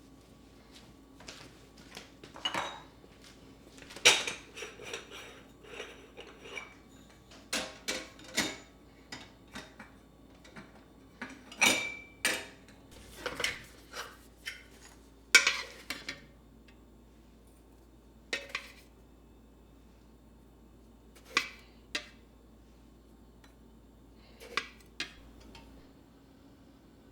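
Dishes and cutlery being handled and set down: scattered clinks and knocks, a clear ringing clink about twelve seconds in, growing sparser in the last third.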